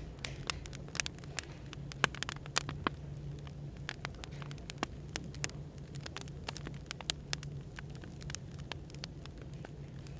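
Burning firewood crackling, with irregular sharp pops, over a steady low hum of background white noise.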